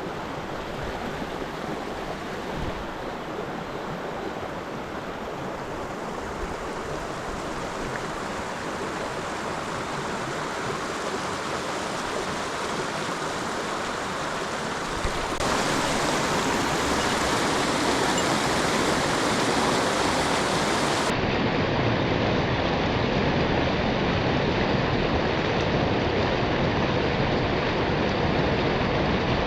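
Steady rush of river water, louder from about fifteen seconds in.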